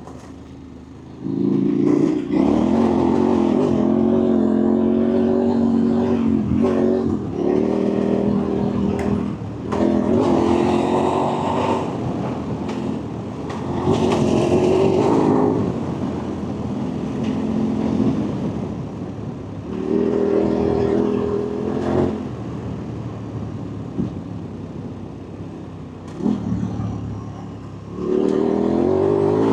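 Engine of an off-road race vehicle under hard throttle in repeated stretches, each held at a steady pitch and then backing off, about half a dozen times.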